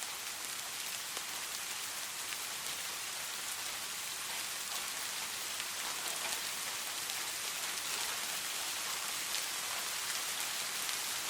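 Steady rain falling, an even hiss with faint scattered taps of individual drops.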